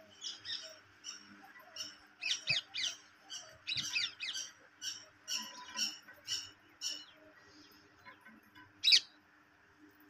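Birds calling: a rapid series of short, high chirps, some sliding down in pitch, thickest from about two to four seconds in, then one loud single call near the end.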